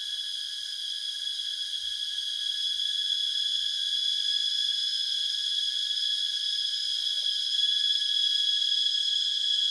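Dense, continuous chorus of insects shrilling steadily in a high, even drone, swelling slightly louder a few seconds in.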